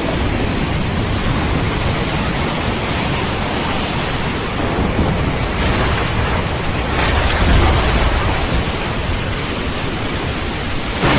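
Steady, heavy rain with a roll of thunder that swells to a deep rumble a little past halfway through, then fades back.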